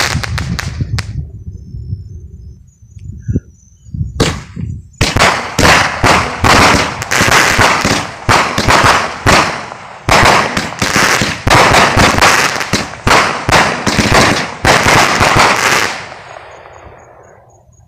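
Fireworks going off: crackling that thins out, a short burst about four seconds in, then a dense run of sharp bangs and crackle lasting about eleven seconds that dies away near the end.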